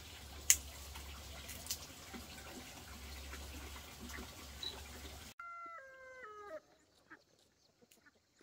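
A steady hiss with a sharp click about half a second in, then, after an abrupt change to quieter surroundings, a rooster crows once, the call stepping down in pitch over about a second.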